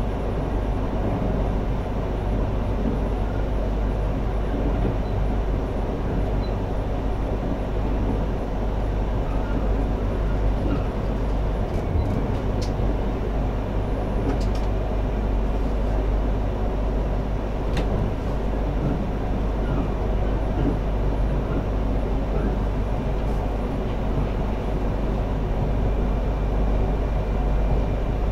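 Running noise of a Yamagata Shinkansen Tsubasa train heard from inside the passenger cabin: a steady low rumble with an even rushing hiss above it, and a few faint clicks partway through.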